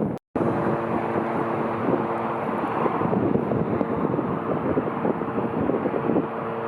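Jet airliner engines running, a loud, steady noise with a few faint steady tones, and wind buffeting the microphone. A brief gap of silence near the start.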